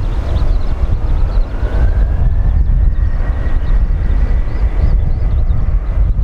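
Boeing 737-800 jet engines running at high power during takeoff: a heavy low rumble, with a whine that rises in pitch over the first few seconds and then holds steady.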